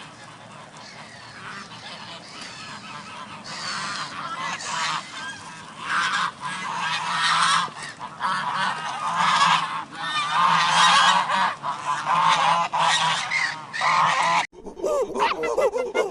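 A flock of waterfowl calling, many short overlapping honks over a low steady hum, cutting off abruptly near the end into a second clip of clearer, separate calls.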